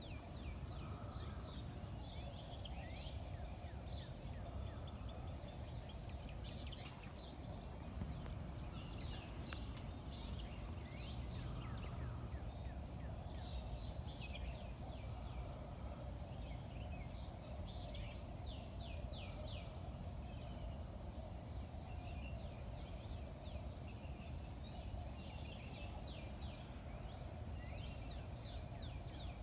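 Birds calling in bursts of quick, high, downward-sliding chirps every few seconds, over a steady low background hum.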